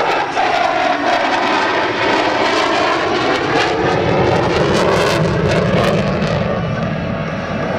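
F-15E Strike Eagle's twin jet engines running loud as the fighter flies past, the pitch falling and the sound deepening into a low rumble in the second half.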